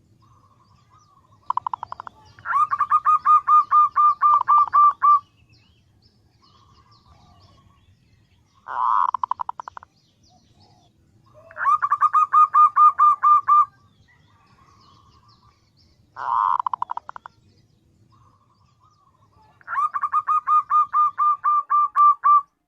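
Female zebra dove (perkutut) calling a male: five bouts of rapid pulsed notes, each lasting one to a few seconds, a few seconds apart, with softer single notes in between.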